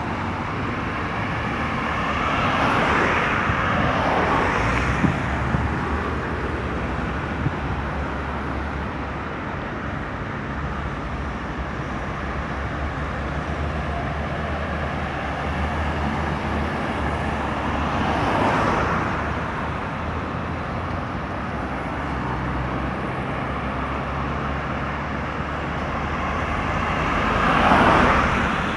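Highway traffic: a steady rumble of engines and tyres, with three vehicles passing close by, one a few seconds in, one in the middle and a loudest one near the end. A few short knocks come early on.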